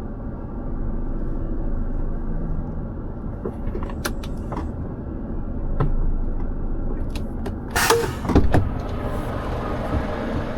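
Scania R500 truck running with a steady low rumble, with a few light clicks about four seconds in, then two loud knocks around eight seconds in, after which a steady hiss comes in.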